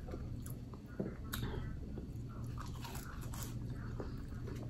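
Close-miked chewing of crinkle-cut french fries: wet mouth sounds with scattered small clicks and crunches. A low steady hum runs underneath.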